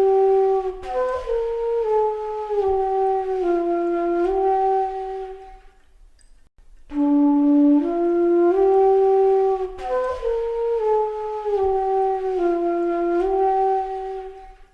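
Background music: a slow melody on a flute-like wind instrument, a phrase of held notes that rises and then steps down. It is heard twice, with a brief pause between.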